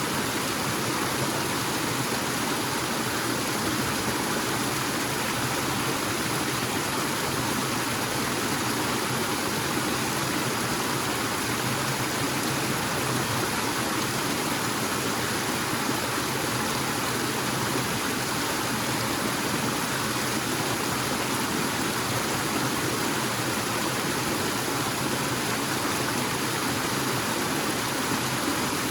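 Waterfall in a forest: a steady, unbroken rush of falling water.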